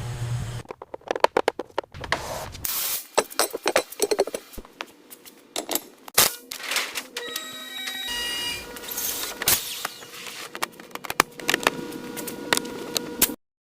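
Rapid, irregular clicks, knocks and clattering, with a few short, high electronic beeps about halfway through; the sound cuts off suddenly near the end.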